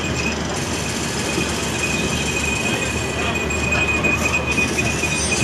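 Moving passenger train heard from on board: steady rumble of wheels on rail with a continuous high-pitched wheel squeal.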